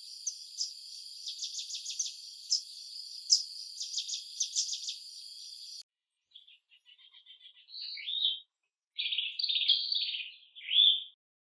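Wild birds chirping and singing. Quick high chirps over a steady high hiss stop suddenly about six seconds in, and then a songbird sings several short warbled phrases.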